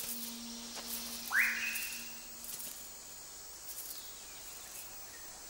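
A bird's single whistled call that sweeps quickly upward and then holds high for about a second, over faint forest insect hiss. A low steady note underneath fades out partway through.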